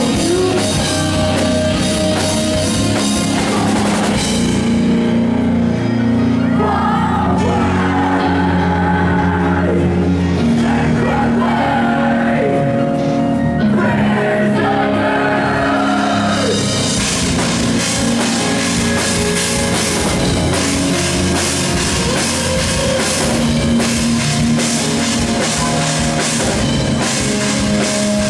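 Live post-hardcore rock band playing loud, with guitars, bass and drum kit. About four seconds in the cymbals and drums drop out to a quieter passage of held guitar and bass notes, and about seventeen seconds in the full band with crashing cymbals comes back in.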